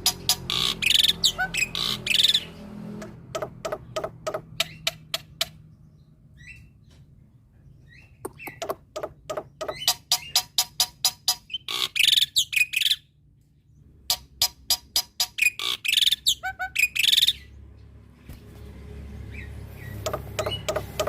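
Male black-winged myna (jalak putih) singing in bursts: fast runs of sharp repeated clicking notes mixed with whistles and harsh calls, broken by short pauses.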